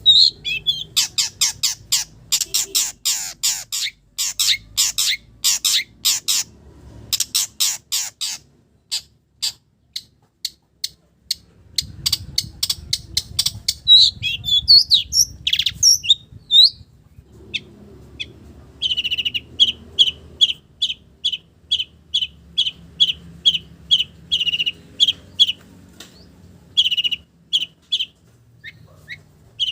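Long-tailed shrike (cendet) singing a song filled with mimicked calls of common village birds. It opens with a fast, harsh chattering run, has scattered whistled notes in the middle, and ends with an even series of short repeated notes at about two a second.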